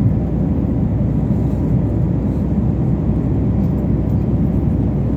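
Jet airliner cabin noise in cruise flight: a steady, even low rumble of engines and rushing air.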